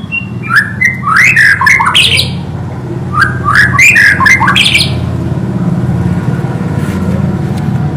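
White-rumped shama (murai batu) singing two quick bursts of loud, sweeping, harsh notes, the second starting about three seconds in, over a steady low hum.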